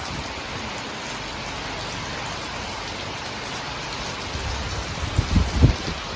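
Steady rain falling and pattering on surfaces, a constant even hiss. A few short low thumps come near the end.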